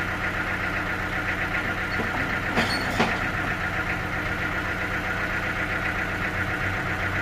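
An engine running steadily at an even pitch, with two short knocks about two and a half and three seconds in.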